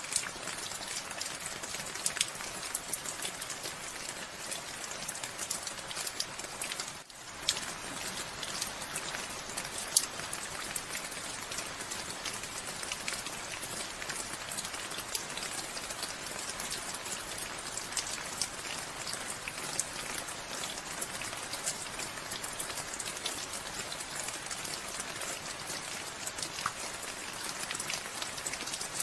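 Steady rain falling, a dense hiss studded with many sharp individual drop ticks. The sound dips for a moment about seven seconds in.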